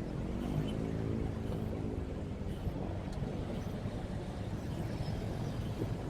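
Motorcycle riding in city traffic: a steady low rumble of engine and road noise. In the first two seconds an engine's pitched hum swells and fades.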